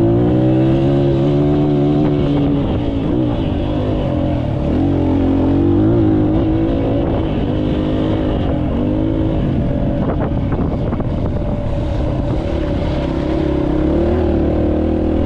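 Dirt bike engine running, its pitch rising and falling again and again as the throttle opens and closes.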